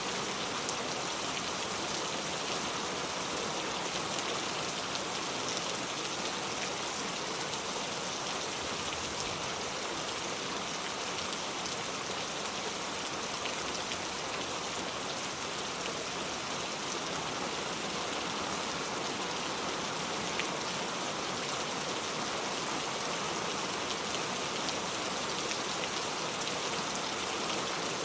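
Steady rain falling, an even hiss of drops with fine pattering throughout.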